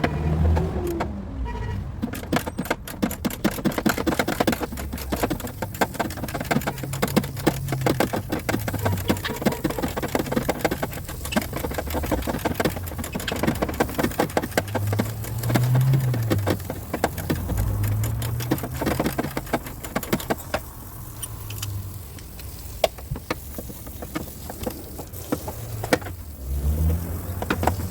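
Rapid light metallic tapping, many small taps a second, typical of a hammer working out a car's sheet-metal body panel, over a low hum that shifts in pitch. The taps thin out about three quarters of the way through.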